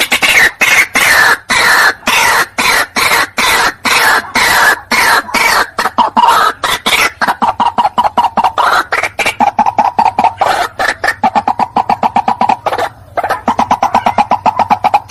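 White-breasted waterhen calls played as a lure: a fast, insistent run of short repeated notes, about four or five a second, several voices overlapping, with a brief pause near the end before the notes resume.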